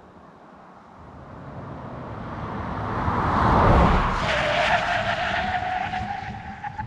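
Chery Omoda 5 with its 1.5-litre turbo-petrol four-cylinder accelerating past. The sound builds to its loudest about four seconds in, then fades while a steady engine note rises slowly in pitch.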